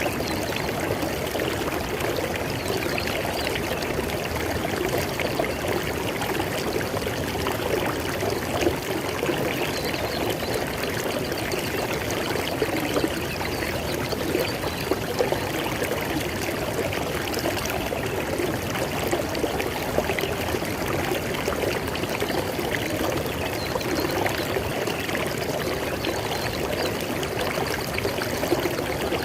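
River water flowing and splashing over rocks, a steady rushing babble.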